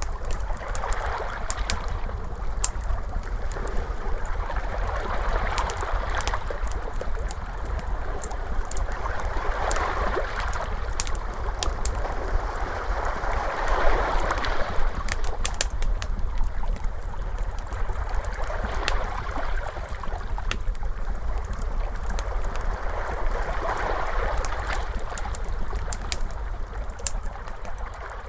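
Crackling fire, with many small sharp pops and snaps, over ocean waves washing in and out, each wave swelling and fading every four to five seconds.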